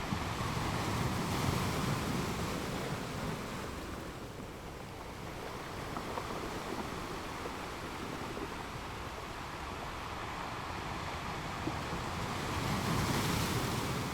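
Ocean surf: waves washing in as a steady rushing noise, swelling about a second in and again near the end, with a lull between.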